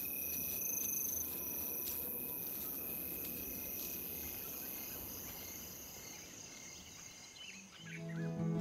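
Insect chorus of the African bush: steady high-pitched chirring that slowly fades away. A few short bird chirps come near the end, and soft mallet-like music begins just before the end.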